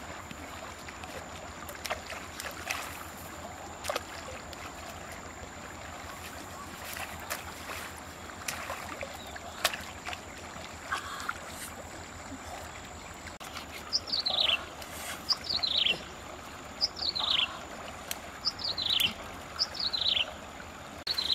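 A bird calling five times in the second half, each call a quick high whistle sliding downward, about one every second and a half. Under it is a steady hiss of flowing river water and scattered small clicks and knocks.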